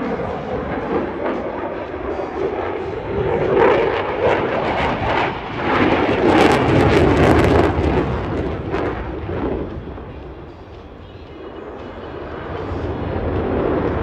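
Jet noise from a Eurofighter Typhoon's two Eurojet EJ200 turbofans during a display pass, with a ragged crackle at its loudest about halfway through. It then fades for a couple of seconds before building again.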